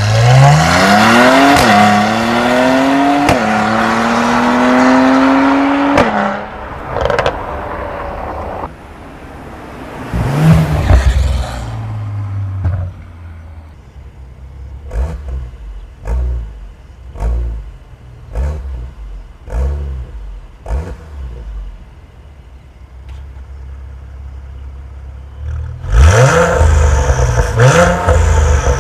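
Mercedes-AMG E43's twin-turbo V6 through an aftermarket turbo-back exhaust with eddy catalytic downpipe and valved catback. It first accelerates hard, the pitch climbing and dropping twice at upshifts, then gives a string of short throttle blips with the exhaust valves closed, and near the end revs much louder with the valves open.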